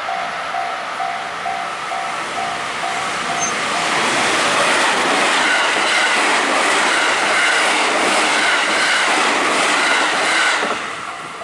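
A level-crossing warning bell dings steadily, about two to three strikes a second. From about four seconds in, a JR Central electric train on the Tokaido Line passes close by, loud, its wheels clattering over the rail joints, until the noise drops away sharply near the end.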